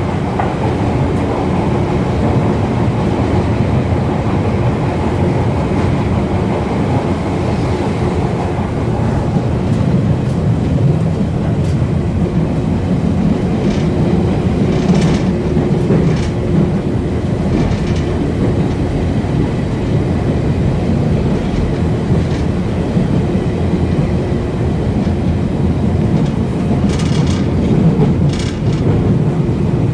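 Passenger train running, heard from inside the carriage: a steady rumble of wheels on rail, with a few brief sharper clicks now and then.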